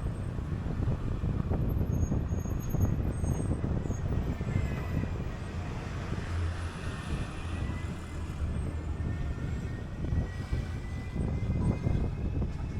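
RTP city bus under way: steady low engine and road noise, with a faint whine rising and falling in the middle.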